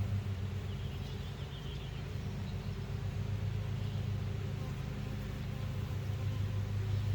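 Honeybees buzzing around an opened hive as frames are worked, a steady low hum that does not change.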